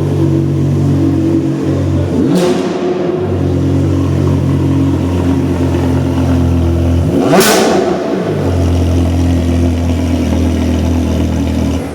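A car's engine idling steadily, blipped twice with short revs that rise and fall back to idle, about two seconds in and again past the halfway point. The sound cuts off suddenly near the end.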